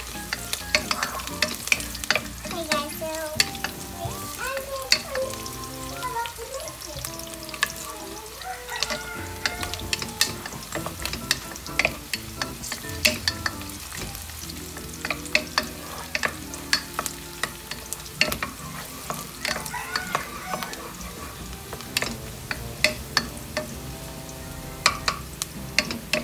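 Onion, garlic and ginger sizzling in hot oil in a nonstick pot while a wooden spatula stirs them, with frequent sharp knocks and scrapes of the spatula against the pot.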